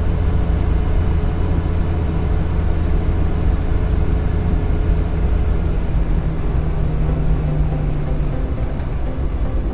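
Logging truck engine running steadily with a low drone.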